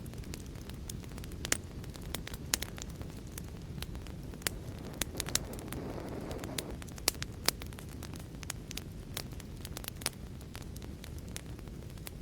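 Wood fire crackling: a steady low rustle of flames with many sharp, irregular pops and snaps, and a brief swell of flame noise about six seconds in.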